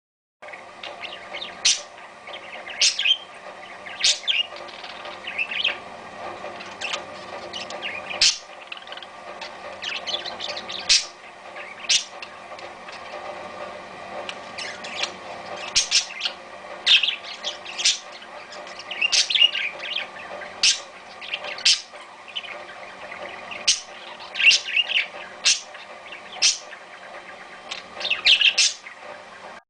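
Parakeet singing: a continuous chattering warble with frequent short, sharp high chirps, starting abruptly about half a second in.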